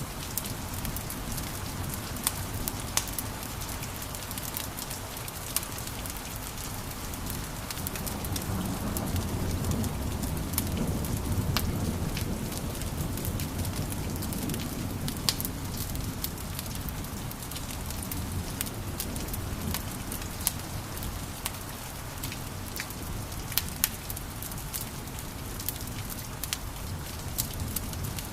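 Wood fire crackling: a steady hiss and low rumble of burning logs with frequent sharp pops scattered throughout, the rumble swelling for a few seconds around the middle.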